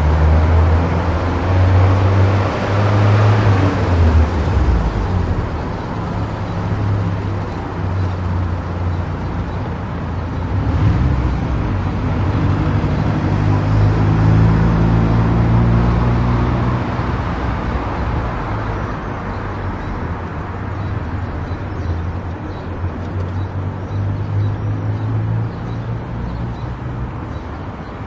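Car on the move: steady road and tyre noise with a low engine hum that shifts up and down in pitch, a little louder in the first few seconds.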